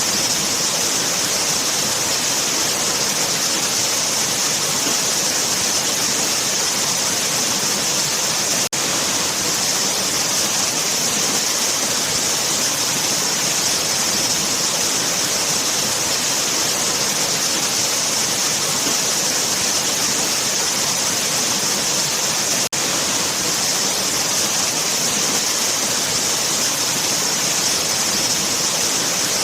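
Steady, dense rush of falling water from a waterfall. There are two momentary dropouts, about 9 and 23 seconds in.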